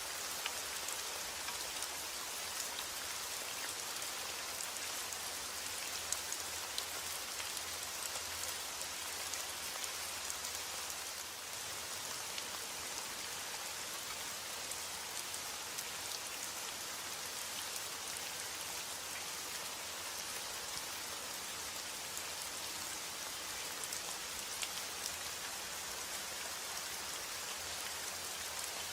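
Steady rain falling on a surface, a dense hiss with many small drop ticks.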